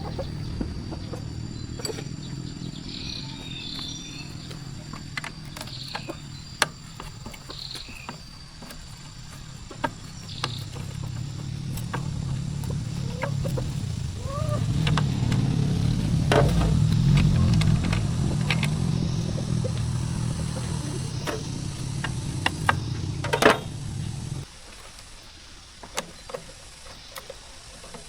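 A motor running with a steady low hum, louder in the middle, then cutting off abruptly about 24 seconds in; scattered sharp clicks and knocks over it.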